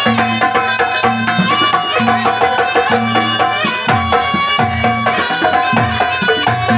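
Javanese gamelan music: bronze metallophones and gongs ringing steady tones over a hand-played kendang drum pattern, some drum strokes bending in pitch.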